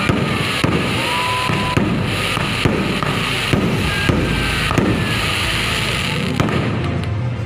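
Fireworks going off in quick succession: a dense run of bangs over continuous crackling.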